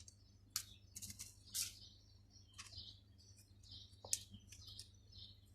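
Scissors snipping through a pigeon's wing flight feathers: a string of short, faint, irregular snips and clicks as the first six primaries are clipped, over a steady low hum.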